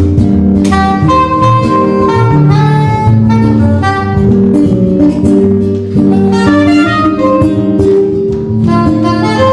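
A live trio playing instrumental music, with a melody line over accompaniment and low bass notes that change every fraction of a second.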